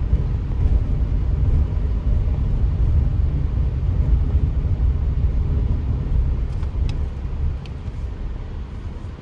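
A car driving along, heard as a steady low rumble of engine and road noise that eases off near the end.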